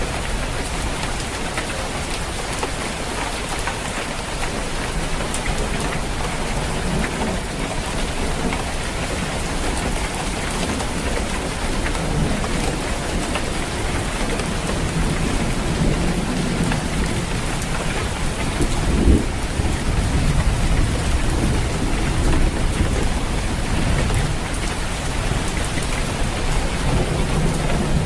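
Steady rain falling on a roof. Low rolling thunder rumbles under it in the second half, with one louder peak a little past the middle.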